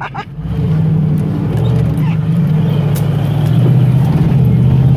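Off-road vehicle's engine revving hard under load as it tries to climb a rock ledge, the vehicle hung up on the rock lip. It builds up about half a second in and gets louder again later on.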